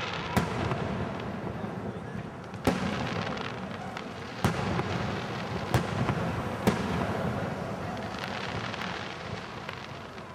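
Fireworks show aerial shells going off: about six sharp bangs, irregularly spaced a second or two apart, over a continuous rumble from the display.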